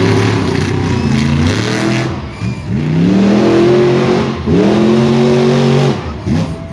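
Monster truck engine revving hard in repeated bursts: three times the engine note climbs in pitch, holds high for a second or so, then drops away.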